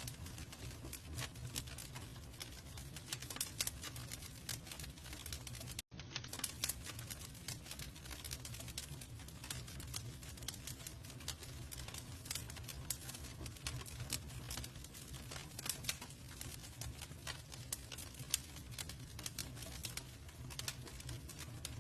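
Campfire crackling with frequent small sharp pops over a low steady rumble of flames. The sound cuts out for a split second about six seconds in.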